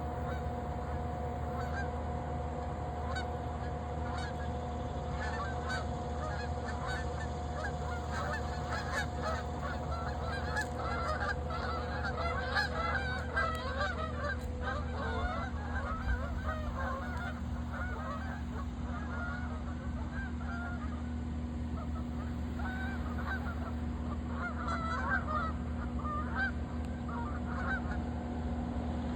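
A flock of geese honking, many short calls overlapping, busiest about ten to fifteen seconds in and again near the end.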